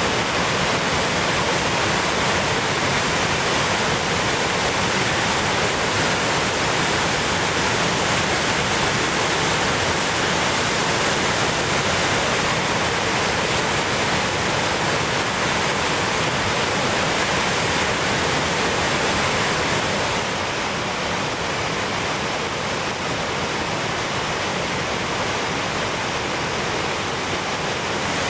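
Orkhon Waterfall (Ulaan Tsutgalan) crashing down steadily: a loud, even rush of falling water. It drops a little in level about twenty seconds in.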